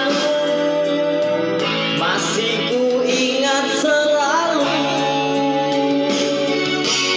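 A singer holding long, wavering sung notes over instrumental accompaniment with guitar.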